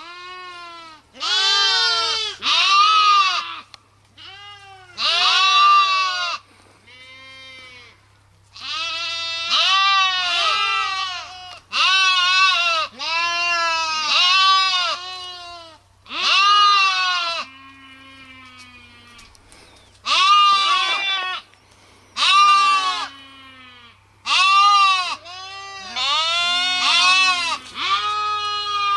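Sheep bleating over and over, a run of calls about a second each with short pauses between, some higher-pitched and a few deeper, as from several animals.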